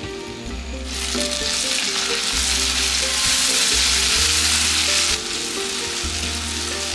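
Chopped tomatoes sizzling in hot mustard oil in a wok as they are stirred with a spatula. The sizzle swells about a second in and drops back a step after about five seconds. Background music with a bass line plays under it.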